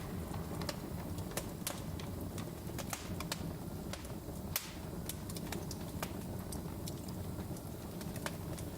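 Log fire in a fireplace crackling: irregular sharp pops and snaps, several a second, over a low steady rumble of the flames.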